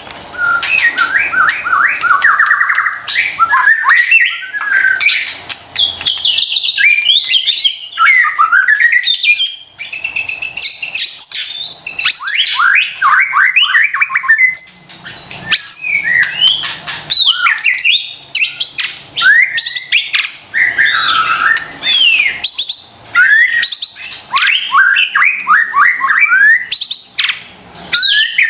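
White-rumped shama (murai batu) in full, vigorous song: a continuous, varied run of loud sliding whistles, rapid trills and harsh chattering notes with only brief pauses.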